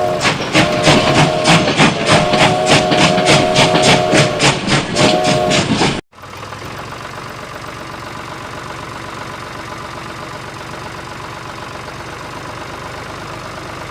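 Engine-like machine chugging at about four beats a second under a held chord of whistle-like tones that sounds in stretches. It cuts off abruptly about six seconds in, and a steadier, quieter running noise continues.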